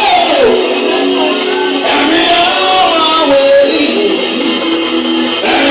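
Church worship music: voices singing a gliding melody over steady held instrumental chords.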